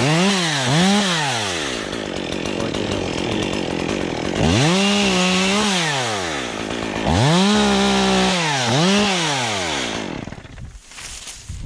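Two-stroke chainsaw revved in three quick blips, then cutting ash wood and revving up twice more before it stops about ten seconds in.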